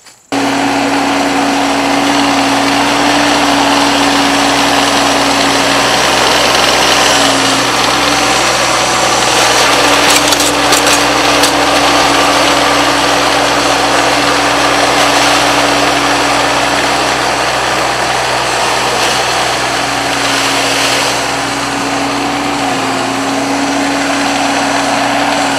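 Mahindra tractor's diesel engine running steadily, with a steady whine over the engine noise; the pitch shifts slightly a couple of times.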